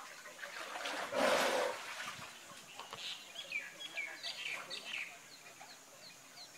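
Birds chirping, with short falling calls repeated a few times a second. About a second in there is a brief burst of rushing noise, the loudest sound.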